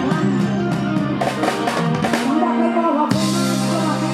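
Live band music with drum kit and bass under a melody line, from an Isan-style sound-truck band; the accompaniment shifts to a new chord about three seconds in.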